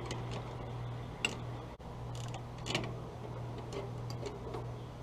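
Scattered light metallic clicks and ticks of a wrench working a nut loose on an engine fitting, a few per second at most and irregular, over a steady low hum.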